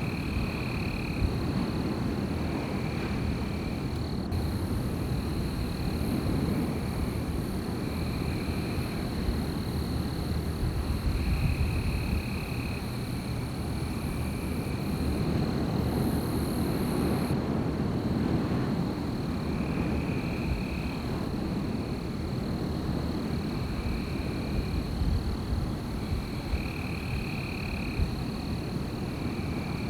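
Night forest ambience: wind blowing steadily as a low rumble, under a continuous high, thin insect-like drone and short high calls that repeat every one to three seconds.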